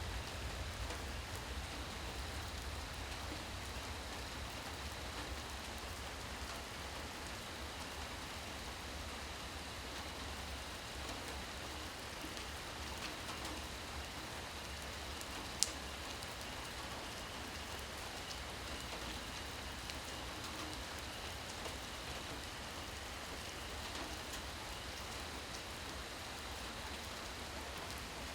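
Steady rain falling, an even hiss of drops on surfaces, with one sharp drip click about fifteen seconds in.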